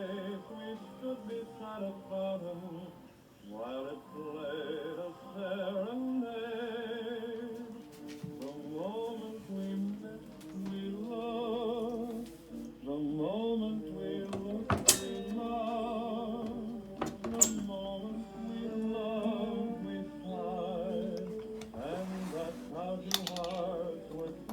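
Vocal music playing on a repaired record player: a singer with a wide vibrato over held accompaniment. Two sharp clicks sound a little past the middle.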